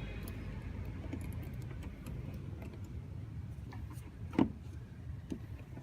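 Scattered small metallic clicks and taps of hand work on the air-intake hose and its clamp being tightened, with one sharper click about four and a half seconds in, over a steady low background hum.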